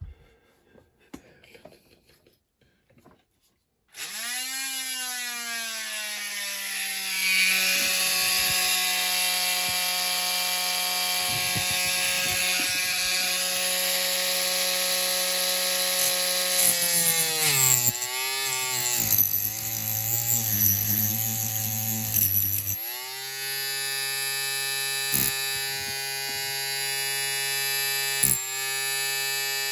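Small handheld electric rotary tool starting up about four seconds in and running with a steady whine. Its pitch dips and wavers for a few seconds past the middle as it works the part, then it cuts out briefly and runs on at a lower, steady speed, with a couple of sharp clicks near the end.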